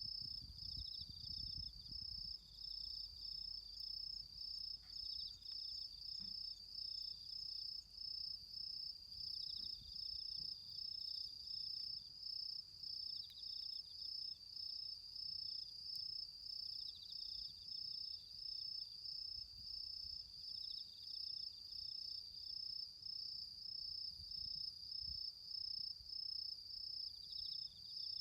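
Autumn crickets chirping in a steady pulsing rhythm, about two pulses a second, with a second, fainter insect trilling on and off a little lower in pitch. A low rumble sits under the first couple of seconds.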